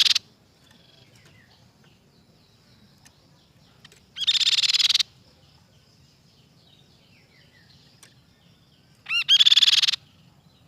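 Grey-cheeked tit-babbler (tepus pipi perak) singing: three short bursts of fast, evenly repeated notes, each under a second long and about four to five seconds apart. The first burst ends just after the start, and the last opens with a separate short note. Faint chirps sound between the bursts.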